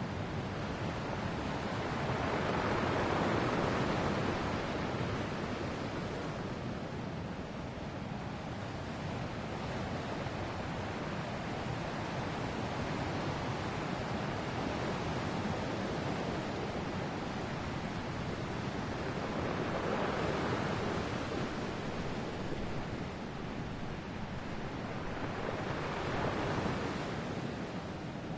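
Ocean waves breaking and washing on the shore in a steady surf, swelling louder about three seconds in, again around twenty seconds in, and near the end.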